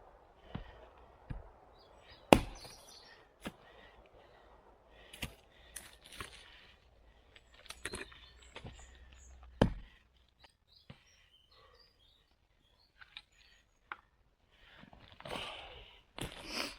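Irregular knocks and snaps of wood being handled or struck, two of them much louder than the rest.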